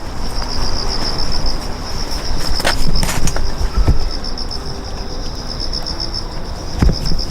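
Insect trilling steadily in a high, rapidly pulsing chirr, with a few sharp knocks and rustles a few seconds in and near the end.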